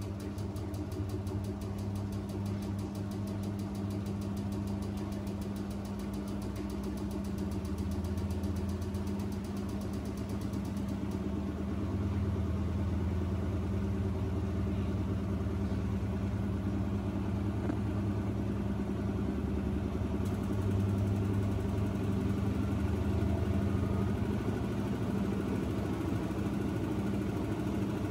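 Washing machine running with a steady motor hum, growing slightly louder about halfway through.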